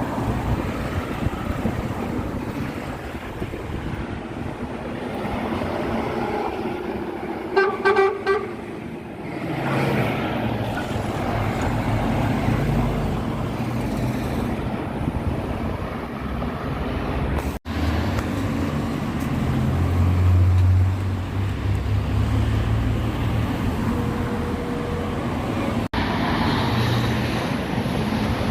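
A vehicle horn gives a short blast about eight seconds in, over the steady running rumble of a heavy vehicle's engine. The sound cuts out abruptly twice later on.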